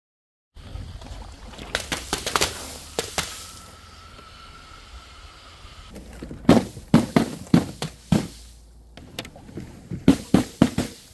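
Quick runs of sharp knocks and clunks from hard objects striking a hard surface, several a second, with a faint steady ringing tone in the middle.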